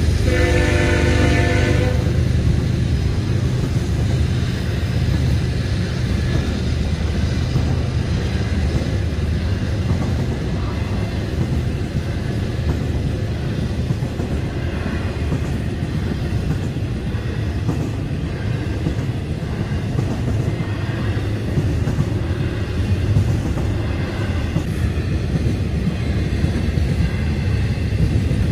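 Florida East Coast Railway freight train: the locomotive's air horn sounds for about the first two seconds, then the train goes by with a steady low rumble.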